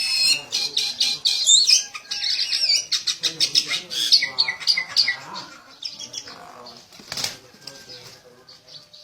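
Wings flapping rapidly in a fight between a small bird and a rooster, with high chirping calls in the first couple of seconds. There is a single sharp knock about seven seconds in, and the flapping thins out toward the end.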